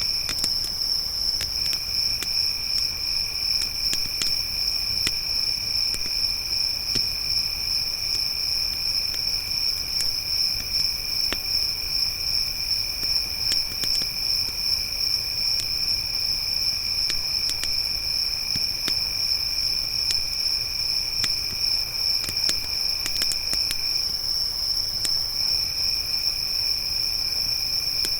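Crickets chirping steadily in chorus, one high-pitched trill with a lower one that stops briefly twice, once near the start and once near the end. Scattered sharp pops and crackles of a wood campfire under the insects.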